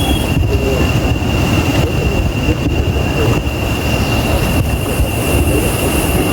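Jungle insect chorus droning steadily, with one constant high whine over a low rumble.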